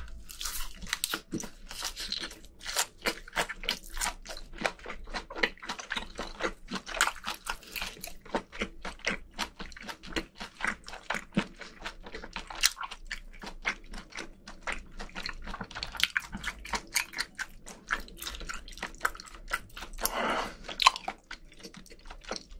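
Close-up mouth sounds of a person chewing a perilla-leaf wrap of raw seafood: continuous wet, squishy chewing with many quick smacks and crunches.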